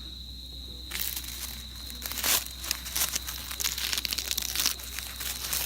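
Crinkling, crackly rustling that starts about a second in and goes on in quick irregular strokes. Underneath it runs a steady, high-pitched insect trill.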